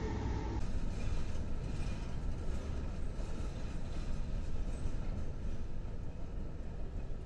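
A railroad passenger car rolling past, a steady low rumble of steel wheels on rail with faint clicks and a few brief, faint high squeals. In the first half-second, the drone of a passing diesel locomotive, cut off abruptly.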